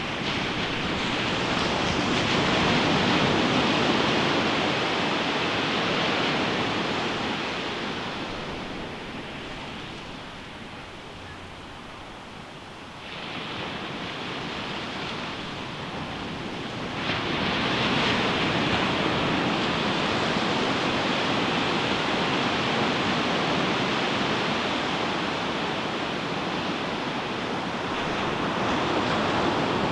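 Ocean surf breaking and washing up a sandy beach in slow swells. A wave's wash peaks in the first few seconds and ebbs to a quieter lull. Another wave then crashes sharply about 17 seconds in, and the surf stays loud after it.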